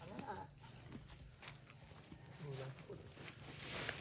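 Steady high-pitched chorus of crickets and other insects, with faint distant voices and a few footstep rustles.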